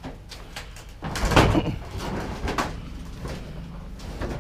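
Knocks, bangs and scraping of bulky scrap items being shoved and rearranged on a loaded vehicle, loudest about a second in.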